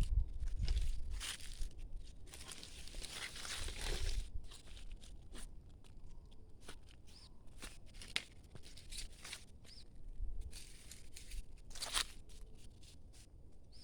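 Irregular crunching and rustling of footsteps through dry leaves and undergrowth, with a louder stretch of rustling a few seconds in and another near the end.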